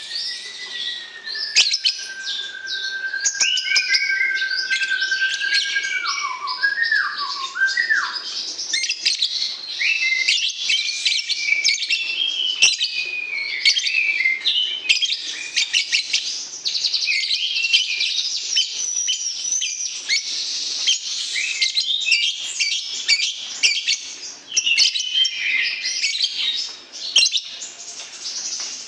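Songbird song played as a bird-training sound: fast, dense twittering and chattering phrases throughout. In the first several seconds a long, steady whistle runs beneath them and ends in a few quick falling notes.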